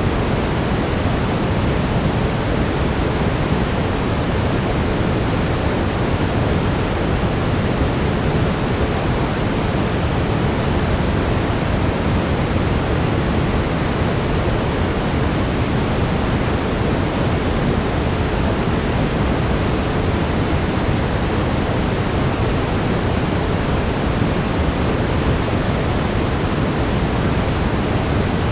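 Steady brown noise, an even rushing hiss weighted toward the low end, with a faint steady tone near 432 Hz.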